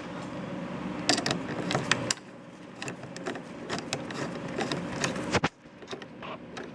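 Irregular metallic clicks and knocks of hand tools and cable hardware as a battery cable is fastened to a terminal, the sharpest knock just after five seconds in. A steady low hum runs underneath.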